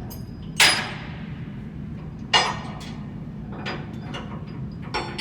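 Hammer blows on metal during a blower-wheel bearing replacement: two hard ringing strikes about two seconds apart, a few lighter knocks, and another hard strike at the end.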